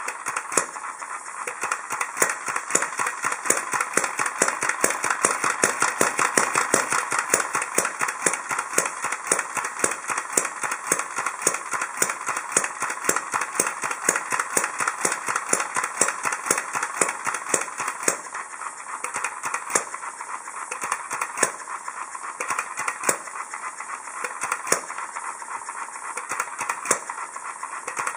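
Hit-and-miss stationary engine running: a steady, rapid train of sharp clicks, several a second, with stronger beats every second or two. It grows a little quieter about eighteen seconds in.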